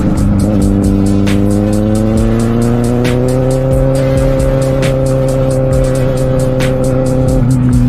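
Kawasaki Z750R inline-four engine pulling under way, its pitch rising slowly for the first few seconds, holding steady, then dropping near the end. Music with a steady beat plays along with it.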